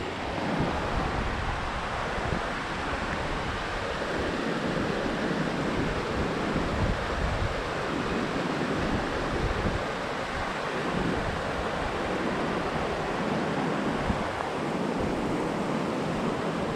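Steady rush of falling water from a waterfall, with wind buffeting the microphone in a low, uneven rumble.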